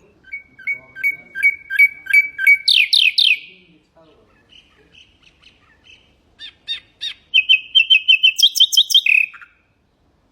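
Nightingale singing two phrases. The first is a run of repeated clicking notes that ends in three loud downward-sweeping whistles. After a short pause, the second is a rapid trill that jumps higher partway through and ends in a down-slur.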